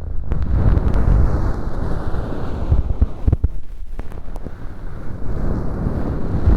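An ear-cleaning tool rubbing and scraping inside a microphone's artificial ear, close and loud, as glued-on fu mock earwax is worked loose. It is a dense scratchy rustle with a heavy low rumble and a few sharp clicks near the middle.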